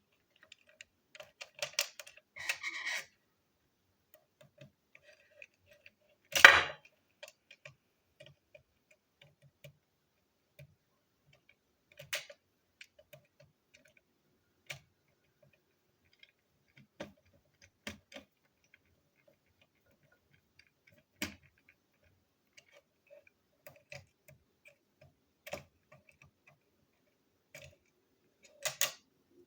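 Clicks and knocks of plastic toy train pieces being handled and fitted together, irregular and scattered. A short clatter comes near the start, a louder sharp knock about six seconds in, and another brief clatter near the end.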